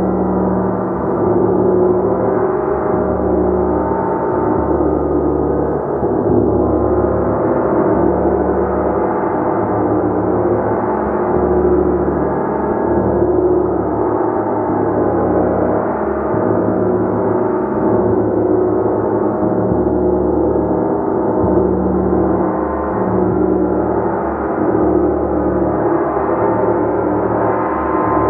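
Gong played continuously, a dense, sustained wash of overlapping ringing tones that swells and ebbs a little, with no distinct separate strikes.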